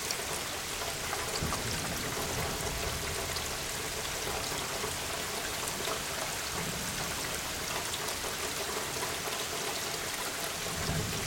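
Steady rain falling in a thunderstorm: an even hiss with scattered drop ticks throughout.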